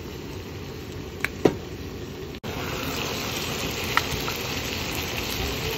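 Thick-cut pork belly and white leek sizzling in a hot sandwich maker, a steady hiss with three short sharp clicks; the sizzle turns suddenly louder about two and a half seconds in.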